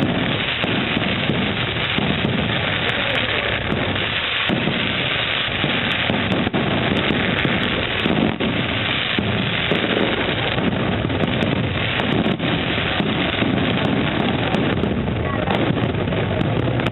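Fireworks display at full intensity: many shells and comets going off together, their bangs and crackle merging into a steady, loud wash of noise.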